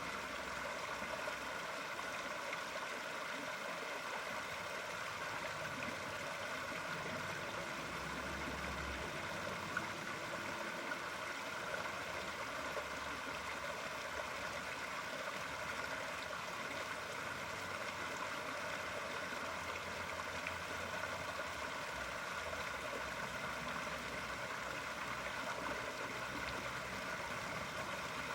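Steady running water, like a stream flowing.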